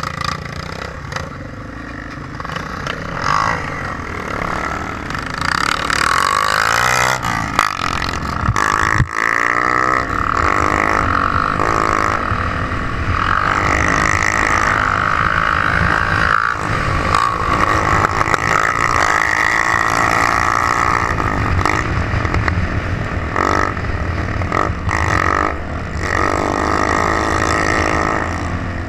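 Trail motorcycle engine running and revving, its pitch rising and falling repeatedly; it gets louder about five seconds in and stays loud.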